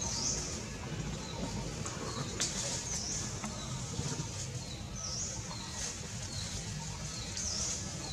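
A bird calling with short, high chirps that dip and rise again, repeated every second or so, over a low steady rumble. A single sharp click sounds about two and a half seconds in.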